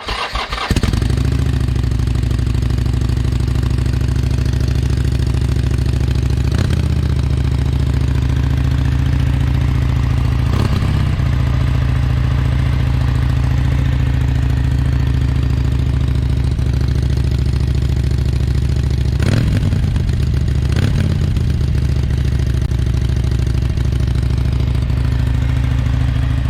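Harley-Davidson Sportster Iron 883's air-cooled V-twin on its stock exhaust, starting up about half a second in and then idling steadily, with a few brief throttle blips.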